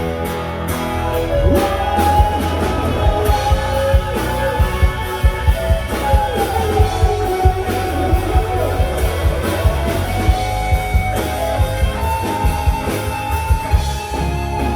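Live rock band playing an instrumental break: a lead guitar melody with bending notes over bass and steady drums.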